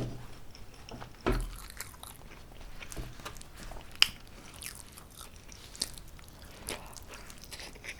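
Close-miked biting and chewing of homemade pizza, with crunches and sharp, irregular mouth clicks, a sharp click about four seconds in.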